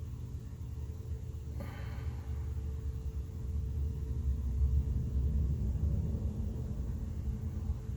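Steady low hum and rumble of background noise, getting a little louder about halfway through, with one faint short tick about one and a half seconds in.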